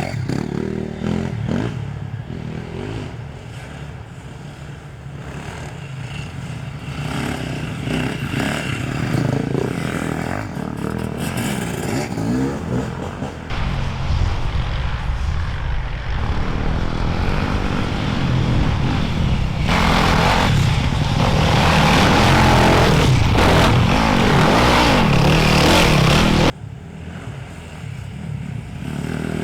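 Enduro motorcycles revving and riding past on an off-road course, their engine noise building until it is loudest from about twenty seconds in, then cutting off abruptly near the end.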